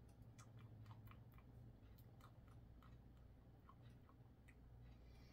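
Near silence with faint, irregular wet clicks of a person chewing a hot mouthful of cooked pasta, over a low steady hum.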